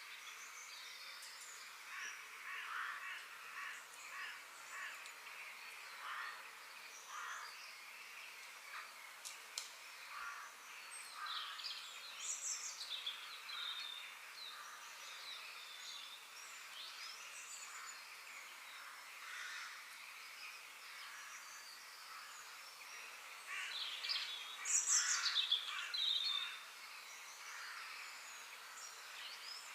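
Park ambience with many birds chirping and calling over a faint background hiss, with a louder burst of calls about 24 seconds in.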